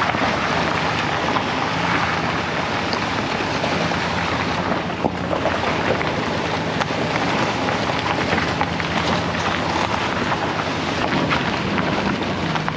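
Chevrolet Silverado 2500HD pickup driving on a forest road: a steady low engine hum under a dense hiss of tyre and road noise.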